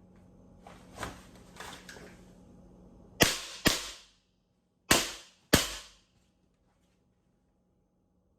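Sig Sauer ProForce M17 airsoft pistol firing four sharp shots in two quick pairs, after a few softer knocks.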